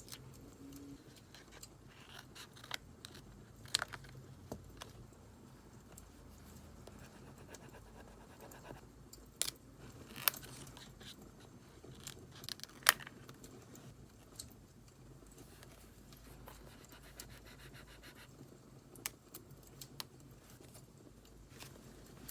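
Quiet journaling handling sounds, light scratching and scraping of paper and decorating items, with scattered sharp clicks and snaps over a faint steady background of burning firewood. The loudest snaps come at about ten and thirteen seconds.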